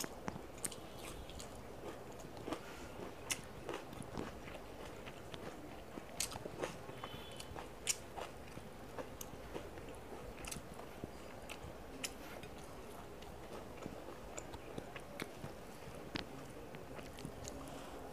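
A person chewing and biting food while eating rice and curry by hand: irregular mouth clicks and small crunches, scattered all through.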